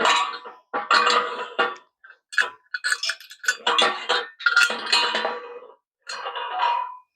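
Metal parts and tools clanking and clinking as they are handled, in a string of separate clattering bursts with a ringing metallic tone.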